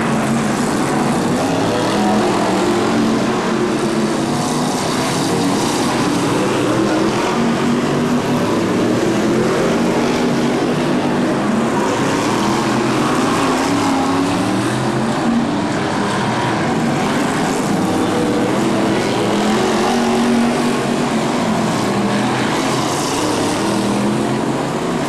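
Several BriSCA F1 stock cars' V8 engines racing, their notes rising and falling together as they accelerate and lift off around the oval.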